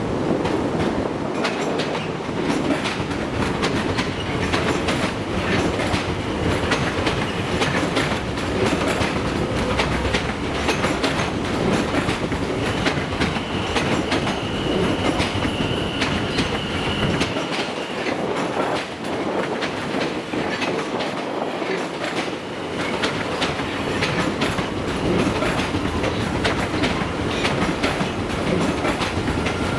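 A train running past on the rails, its wheels clattering steadily over the rail joints. A thin high steady tone, like a wheel squeal, sounds for about five seconds midway.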